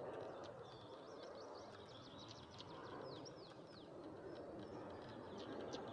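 Small songbirds singing: a steady run of short high chirps and quick falling notes, over a low rush of wind.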